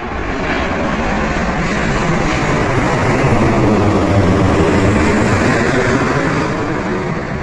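Loud, steady engine and vehicle noise that swells a little toward the middle and eases slightly near the end.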